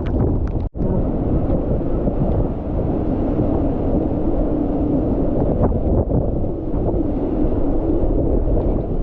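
Hurricane-force wind blowing hard and buffeting the microphone in a dense, steady rumble. The audio briefly cuts out just under a second in.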